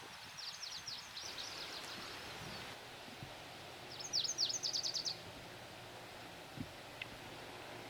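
A songbird singing two songs of rapid, high, down-slurred notes, the second, starting about four seconds in, short and louder.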